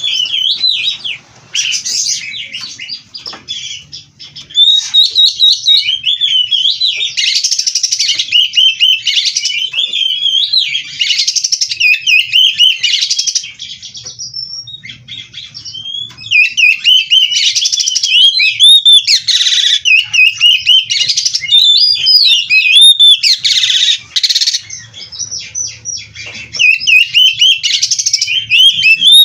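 Oriental magpie-robin (kacer) singing at length in a fast, varied stream of whistles, trills and chattering phrases full of mimicked calls ("full isian"), easing off briefly about halfway through and again near the end.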